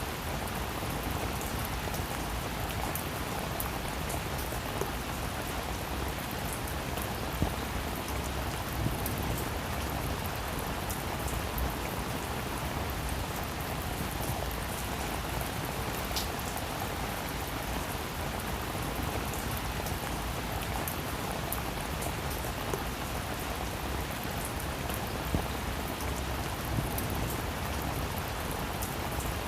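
Steady rain falling on a roof: an even hiss of rainfall with scattered, slightly louder individual drops hitting close by.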